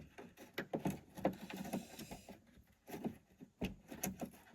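Irregular light clicks and knocks from hand tools being handled and sorted, several a second, while looking for a wrench of the right size.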